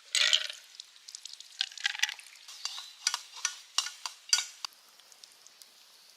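Fried rice sizzling in a Chinese wok while a metal utensil scrapes and knocks against the pan. There is a loud hiss at the very start, then a quick run of sharp scrapes and clacks, fading after about five seconds.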